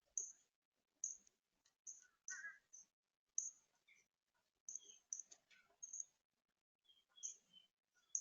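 Small birds giving short, high chirps, about a dozen scattered calls with a few lower notes among them, along with a few faint sharp clicks.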